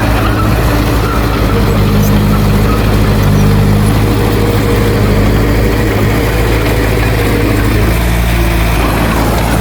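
Heavy diesel engine of earthmoving equipment running steadily, pulling a little harder for a few seconds in the middle.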